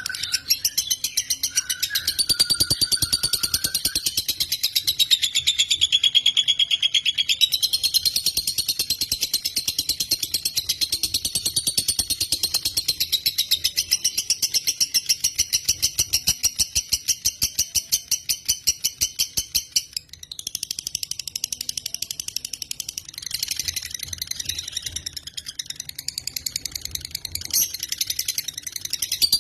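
Lovebird singing a long, unbroken chattering trill of very rapid high chirps, its pitch wavering up and down, with a brief pause about twenty seconds in before it carries on.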